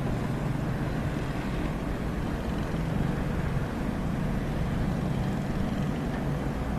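Komatsu excavator's diesel engine running steadily with a low hum.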